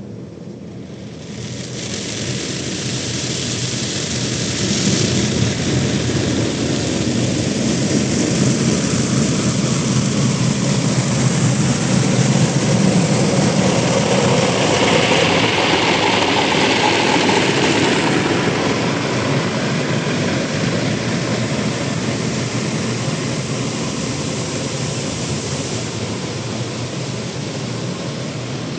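Automatic tunnel car wash machinery running: a loud, steady rushing noise that sets in about a second and a half in, with a brighter hiss swelling in the middle.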